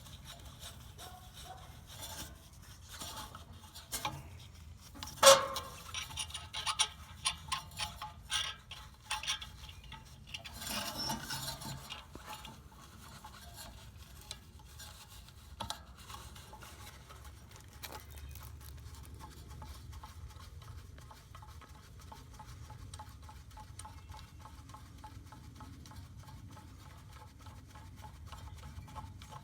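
Metal parts of a blade/wheel puller clinking, knocking and scraping as screws are set and tightened on a blower motor shaft, with the loudest knock about five seconds in. After about twelve seconds only a faint, fast, even ticking remains.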